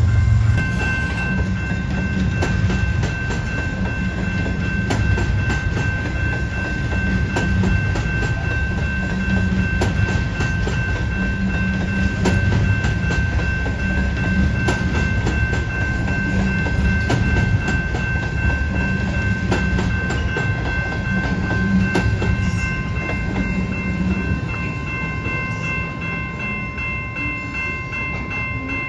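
Train passing: a diesel locomotive's engine rumbling and wheels clicking over rail joints, with steady high-pitched ringing tones throughout.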